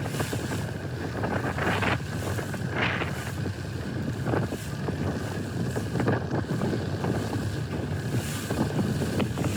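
Strong wind buffeting the microphone over the rush of water as a boat sails through big waves, with a few short splashes of waves against the hull.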